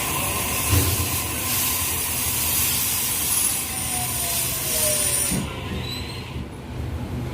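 Sydney Trains electric passenger train running on the rails: a steady rumble and hiss of wheels on track, with a faint whine that falls in pitch midway. The high hiss drops away about five seconds in and the sound gets quieter.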